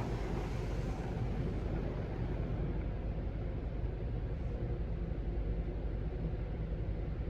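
Mark VII ChoiceWash XT soft-touch automatic car wash running through its wash cycle: a steady low rumble with an even hiss of noise over it.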